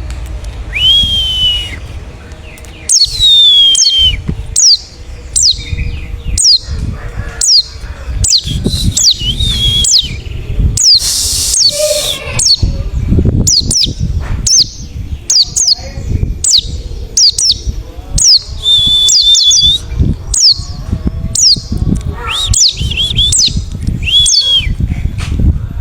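White-eye (pleci) singing: a run of quick, high chirps that sweep sharply down in pitch, mixed with a few longer whistled notes, over a low background rumble.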